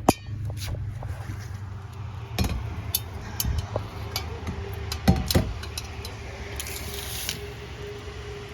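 Scattered sharp knocks and clatters of objects being handled, the loudest right at the start and a pair about five seconds in, over a steady low rumble.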